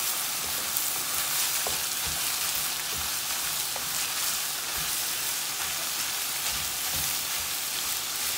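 Shredded cabbage, carrots and minced meat sizzling in a frying pan, a steady hiss, while a wooden spatula stirs and turns them with soft scrapes and knocks.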